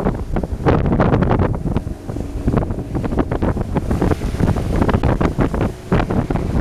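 Heavy wind buffeting the microphone on a speeding open boat, with the rush of water against the hull and the outboard engine faint beneath it.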